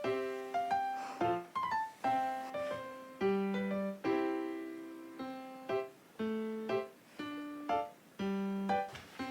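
Solo piano music: a gentle, unhurried melody of struck notes and chords, each fading away before the next.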